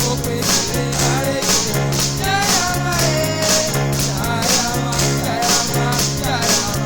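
Praise music from a band: a steady beat about twice a second under bass notes and a bending melody line.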